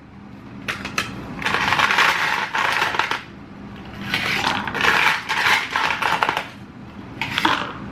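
Ice cubes clinking and rattling in a cup of iced coffee, in two long spells of jangling with a few sharp clinks between them.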